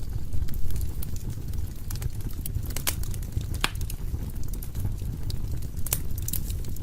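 Wood fire burning in a fireplace: a steady low rumble with irregular crackles and sharp pops. The clearest pops come a little before the middle and again near the end.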